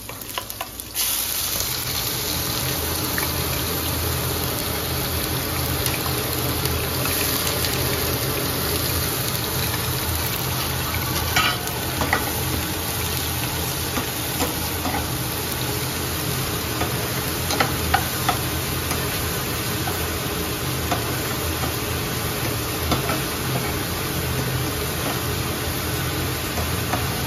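Onions and onion paste sizzling as they fry in oil in a nonstick pan. A metal slotted spoon stirs them with occasional clicks and scrapes against the pan. The sizzle sets in abruptly about a second in and then holds steady.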